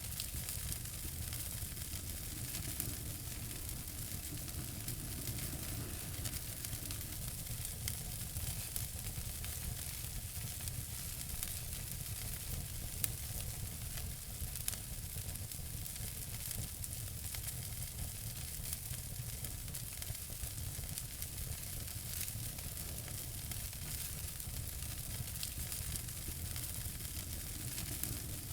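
Fire crackling in a fireplace: a steady hiss with many small crackles and pops throughout, one sharper pop about halfway through.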